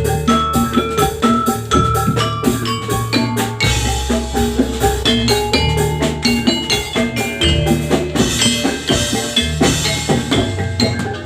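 Instrumental Javanese gamelan music for jathilan, with no vocals: bronze metallophones and gongs ringing out fast interlocking struck notes over drums and a steady low bass.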